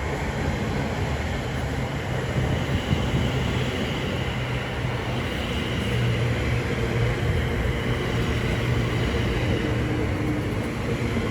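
Greater Anglia Class 720 electric multiple unit running past, a steady rumble of wheels on rail with a low hum and a faint high whine.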